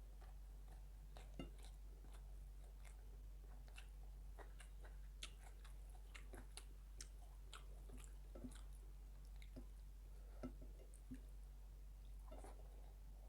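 A person chewing a meal of rice with fried fish and chicken close to the microphone: faint, irregular wet clicks and smacks of chewing over a steady low hum.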